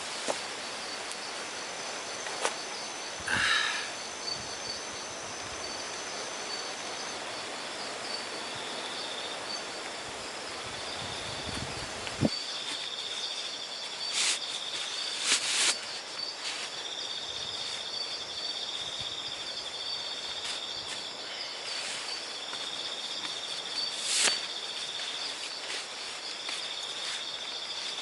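Crickets and other night insects chirping in repeated high trills over a steady background hiss, with a few sharp clicks. About twelve seconds in, a low rumble of wind on the microphone builds and then cuts off suddenly.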